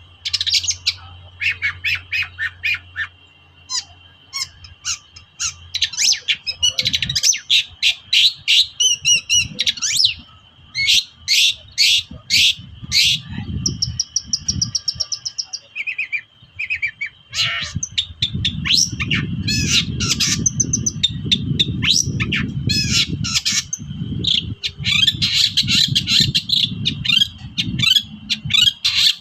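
Long-tailed shrike (cendet) singing a fast, unbroken run of short, sharp squawking calls and chattering notes, with a steady high tone under it and a low rumble for a few seconds near the end.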